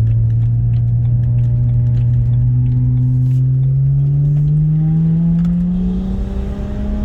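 BMW 335i's N54 inline-six, converted to a single GT35 turbo, accelerating under load, its engine note rising steadily in pitch, heard from inside the cabin.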